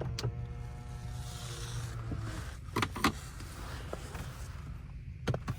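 A 2014 BMW 535i F10 responding to being locked with its newly programmed key: an electric motor whines steadily for about two seconds, then a few sharp mechanical clicks follow.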